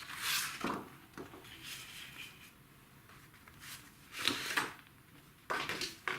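Sheets of drawing paper being handled and shuffled, giving several short rustling swishes a second or so apart.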